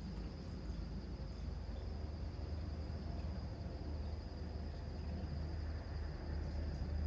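Crickets chirping in a continuous high trill, over a steady low rumble.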